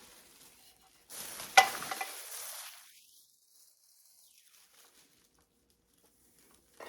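A crackling rustle about a second in, with a sharp click at its loudest point, fading out after a couple of seconds; then near silence.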